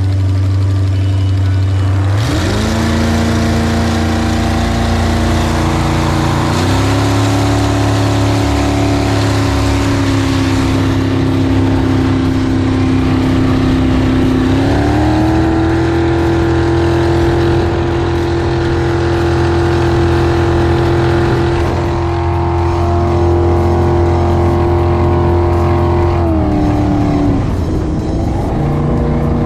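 Jet boat's Chevy V8 engine running loud and steady. Its pitch climbs about two seconds in, steps up twice more, and drops back near the end.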